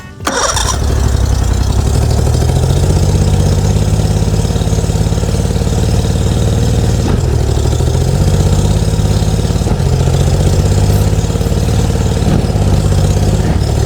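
Boat engine running steadily at idle, freshly started on starter fluid, its speed rising and falling slightly a few times.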